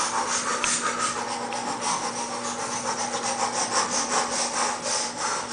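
A hand rubbing and stroking a cat's fur in quick, repeated scratchy strokes, over a steady low hum.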